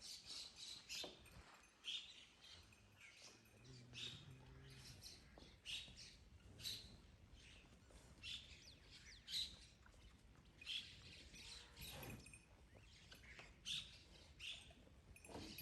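Small birds chirping: a steady run of short, high chirps, about two a second.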